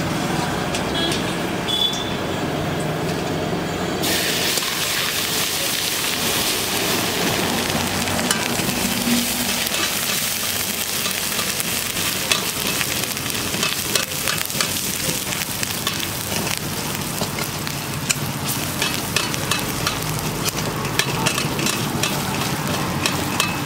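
Chopped vegetables sizzling in hot oil in a wok, the hiss jumping up sharply about four seconds in as they hit the oil. A steel ladle stirs and scrapes against the wok with frequent short clicks.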